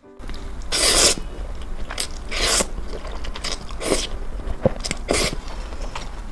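Close-miked crunchy chewing: a series of crisp crunches about every half second to a second, the loudest about a second in.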